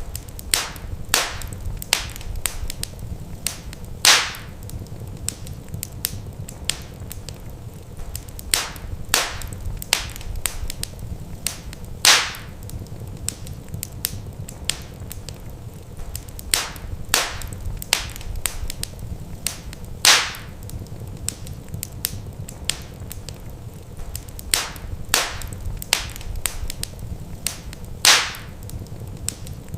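Wood fire crackling in a fireplace: frequent sharp pops and snaps over a steady low rumble, with a louder pop about every eight seconds.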